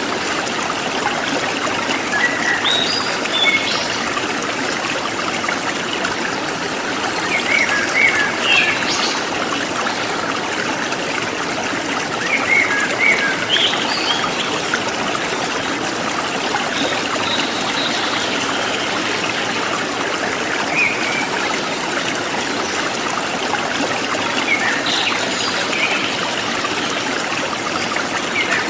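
Shallow stream flowing and trickling steadily over stones, with songbirds chirping in short phrases every few seconds.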